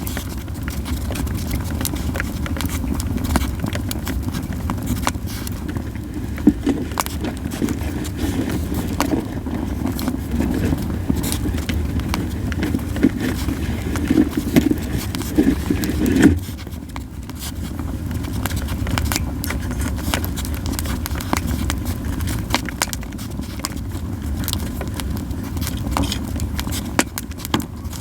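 Yew firewood burning in an open campfire, with many sharp crackles and pops over a steady low rumble. The rumble swells for a few seconds and then drops away suddenly a little past halfway.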